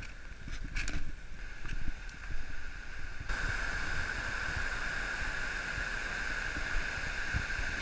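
Rushing water of a river waterfall and rapids, a steady hiss over a low rumble. About three seconds in it changes abruptly to a louder, more even rush.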